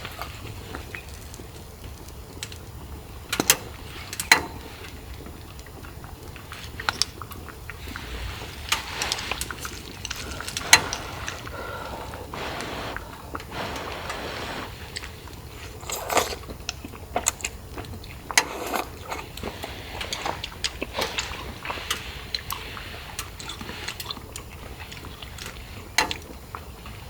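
Steady rain hiss with irregular light clicks and knocks, a few sharper, as camp gear and utensils are handled.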